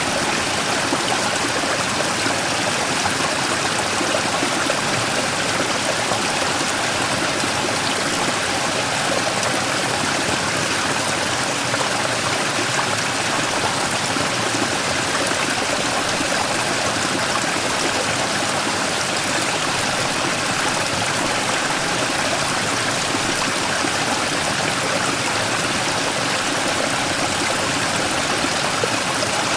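Mountain stream rushing and splashing over a large rock in a small waterfall, a steady full rush of water.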